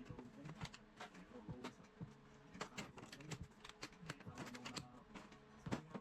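Faint, irregular light clicks and knocks, several a second, like small objects being handled.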